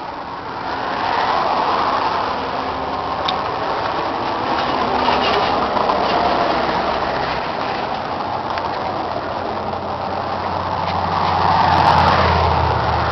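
John Deere 7410 tractor's diesel engine running, its deep engine note growing louder about three-quarters of the way through.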